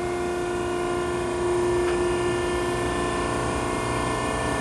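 Machinery running steadily with a constant hum made of several steady tones, growing slightly louder about a second and a half in.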